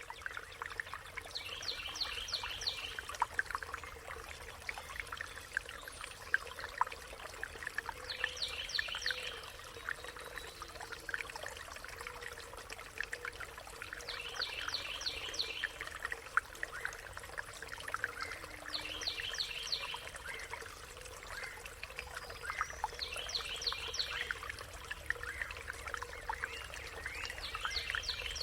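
A songbird repeats a short, high phrase of rapid notes about every five seconds, six times, over a continuous trickle of running water.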